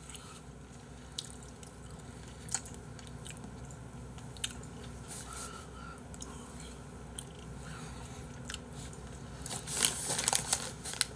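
Quiet chewing of a buffalo chicken wing, with scattered small clicks and a louder patch of handling noise near the end.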